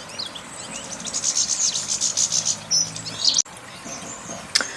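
Small garden birds calling: a few short high chirps, then a rapid high twittering trill lasting about two seconds. A single sharp click comes near the end.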